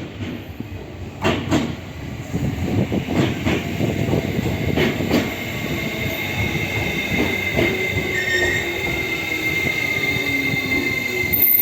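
E491 East i-E inspection train pulling into a station: its wheels click over rail joints, then a high, steady wheel squeal sets in, with a tone falling slowly in pitch as the train slows.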